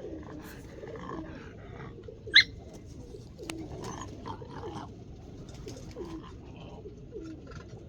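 Domestic pigeons cooing over and over, each coo a short low falling note. About two and a half seconds in, a single short, sharp high-pitched chirp stands out above them.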